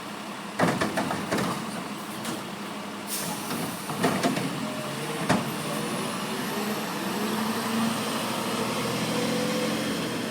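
Garbage truck working at the curb: several sharp clanks and knocks, then its engine revving up with a slowly rising pitch and a high whine over the second half.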